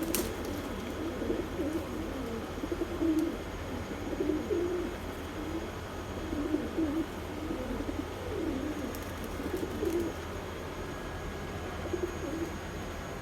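Domestic pigeons cooing, repeated low throaty coos one after another, over a steady low hum.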